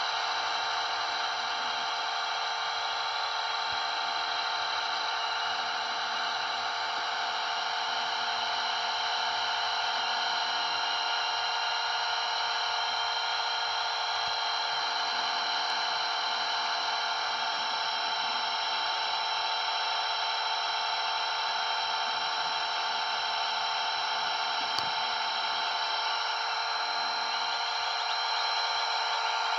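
Blade 230S V2 electric RC helicopter flying, its brushless motor and rotor blades giving a steady high whine that holds one pitch throughout.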